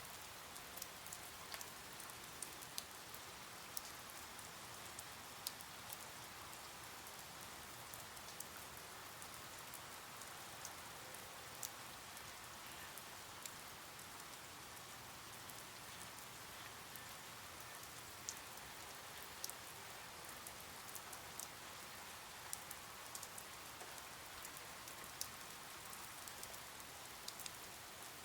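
Soft, steady rain, an even hiss with frequent sharp ticks of single drops hitting a surface.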